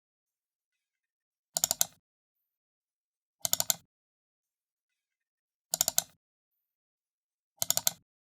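Computer mouse button double-clicked four times, about two seconds apart, each double-click a quick cluster of sharp plastic clicks.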